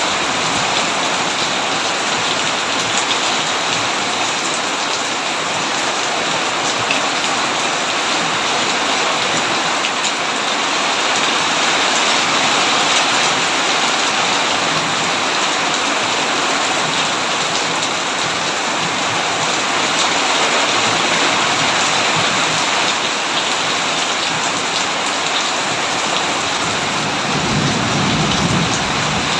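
Heavy rain drumming steadily on a tin roof, with a brief low rumble near the end.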